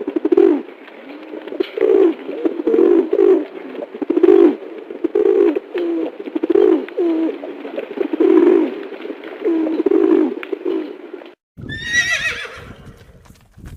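Pigeon cooing over and over in low, repeated coos. After a sudden break near the end, a horse whinnies once in a falling call.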